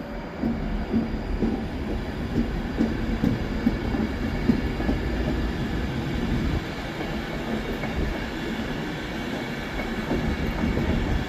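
Class 390 Pendolino electric multiple unit moving through the station, a steady rumble of wheels on the track.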